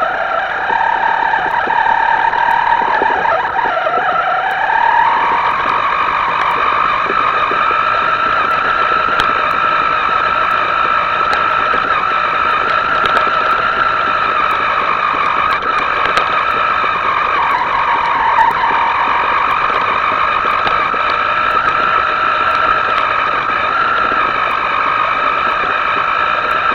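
Small electric motor of a radio-controlled boat whining steadily at high speed. Its pitch dips and climbs back as the throttle changes, about four seconds in and again past the middle.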